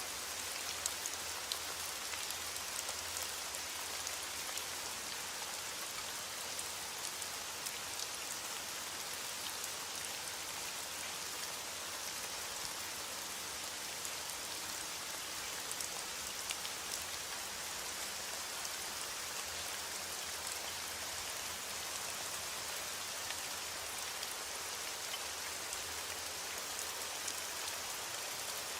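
Steady rain falling: an even hiss with scattered louder drops ticking throughout.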